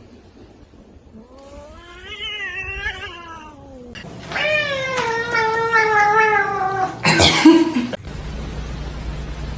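A domestic cat yowling: two long, wavering, drawn-out calls, the second louder and slowly falling in pitch, followed by a brief loud noisy sound.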